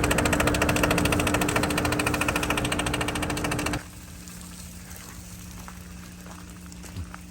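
A loud, rapid mechanical rattle over a steady hum, which cuts off abruptly about four seconds in. After it comes a faint, steady low hum with a few light ticks.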